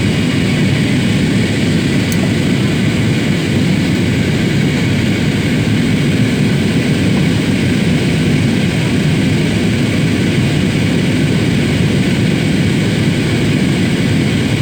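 Steady drone of an airliner's engines and airflow heard from inside the passenger cabin in flight, a constant low rumble that neither rises nor falls.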